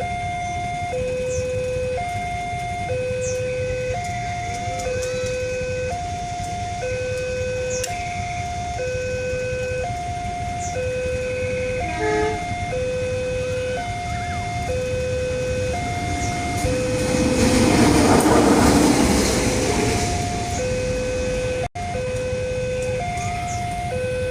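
Level-crossing warning alarm of the Westinghouse type sounding a steady two-tone high-low signal, each tone just under a second, repeating about every two seconds. Past the middle, a loud rushing noise of passing traffic swells for a few seconds and fades.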